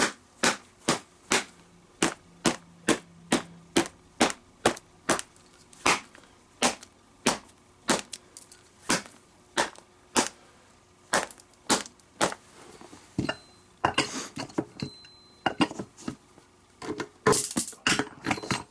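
Repeated sharp blows on a leather baseball glove, about two a second and evenly spaced at first. About two-thirds of the way through, the blows turn irregular, ending in quicker clusters of knocks.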